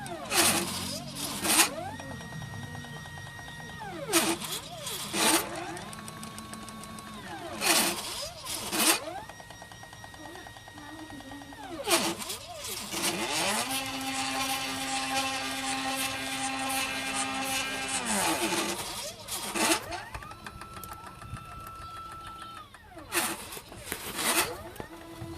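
Stepper motors of a cheap CNC machine driving its axes through a series of moves. Each move is a whine that rises in pitch, holds steady, then falls away, with sharp clicks between moves. A longer, lower-pitched move runs through the middle.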